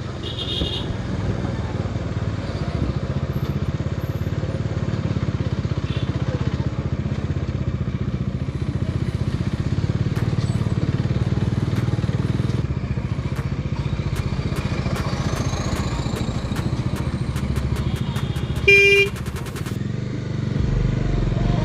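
Bajaj Dominar 250's single-cylinder engine running steadily under way on the road, with a short horn honk near the end.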